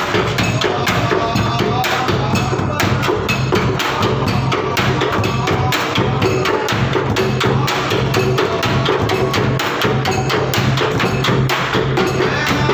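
Bedug, the large Indonesian mosque drum, beaten in a fast, continuous rhythm of many strikes together with sharper clattering percussion: takbiran drumming that heralds Eid al-Fitr.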